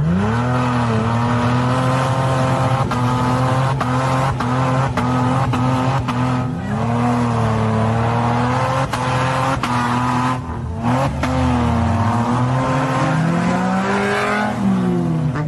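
A Jeep's engine revving up and down again and again under load, its pitch swinging repeatedly, with short sharp knocks now and then.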